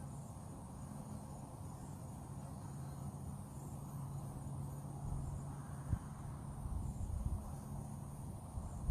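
Steady high-pitched insect chorus, with a low steady hum beneath it and a single short knock about six seconds in.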